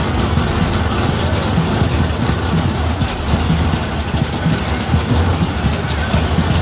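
A drag car's engine idling at the starting line, a steady low rumble with an uneven, choppy pulse, with crowd voices behind it.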